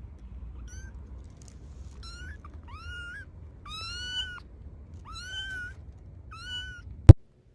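A cat meowing repeatedly: about six high-pitched meows, each rising then levelling off, the loudest about four seconds in. A single sharp click near the end.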